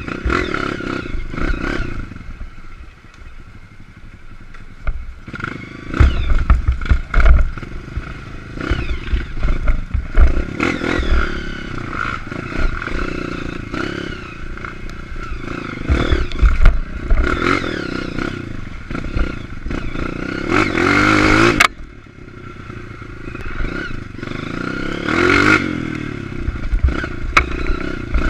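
Honda CRF 230 dirt bike's single-cylinder four-stroke engine revving up and dropping back over and over on a slippery wet trail, with the bike clattering and thumping over the ground. About two-thirds through, a sharp rev cuts off suddenly.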